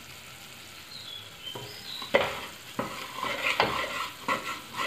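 Onion-and-spice masala frying and sizzling in oil in a pot, stirred and scraped with a wooden spoon, with a few sharp knocks of the spoon against the pot.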